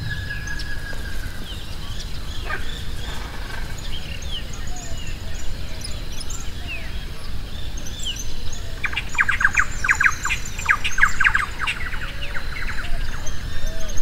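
Small birds chirping and calling, with many short notes throughout. About nine seconds in, a rapid run of sharp notes lasts some four seconds.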